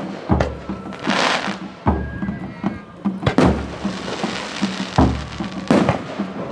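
Aerial fireworks bursting in quick succession: several deep booms about a second apart, some followed by a crackling hiss, over background music.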